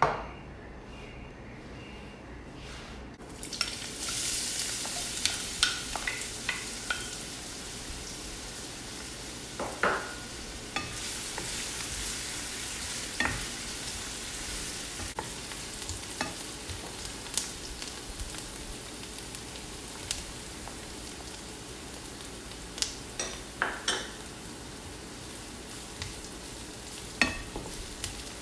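Food frying in hot oil in a pan: a steady sizzle starts suddenly about three and a half seconds in, with scattered sharp clicks and knocks of a utensil against the pan.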